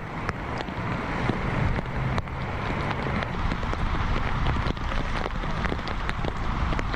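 Heavy rain pouring down, splashing onto standing water: a steady hiss dotted with many small drop impacts, with a low rumble underneath.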